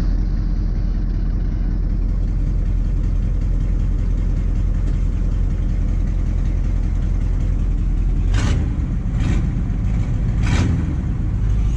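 A 6.2-litre Detroit diesel V8 idling steadily, with three short sharp noises about eight to eleven seconds in.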